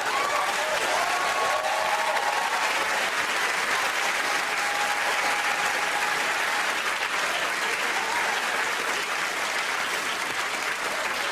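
Studio audience applauding and cheering, with a few shouts in the first few seconds.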